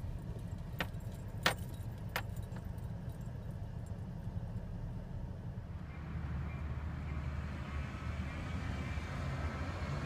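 Low, steady rumble of an idling vehicle engine, with three sharp clicks in the first few seconds. From about six seconds in, a louder, rising noise joins it.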